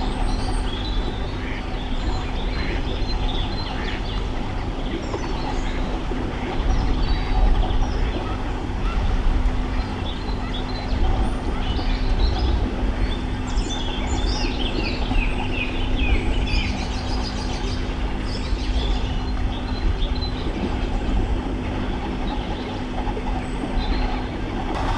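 Wild birds singing along a canal: scattered chirps and short song phrases, busiest in the middle, over a steady low rumble with a constant hum.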